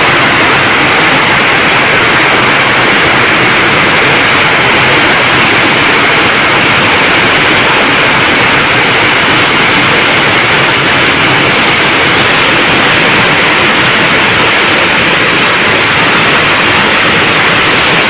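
Rain falling steadily, a dense even hiss that does not change.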